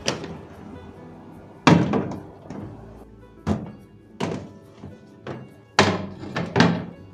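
Soft background music with about six separate thuds and knocks as household items are handled and set down, the loudest a little under two seconds in and again near six seconds.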